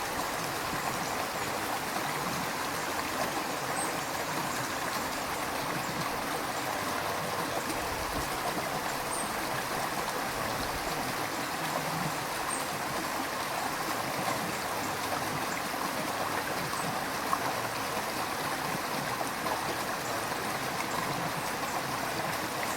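River water flowing steadily over stones, a continuous rushing and gurgling.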